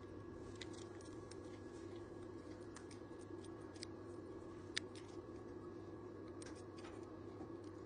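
Steady hum of bench equipment with scattered faint, sharp clicks of small metal tools handling a phone logic board during microsoldering. The sharpest click comes just under five seconds in.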